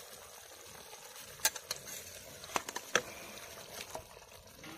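Raw chicken pieces going into hot masala in a kadhai and sizzling, with several sharp clinks of a steel ladle against the steel bowl and pan as the pieces are scooped in.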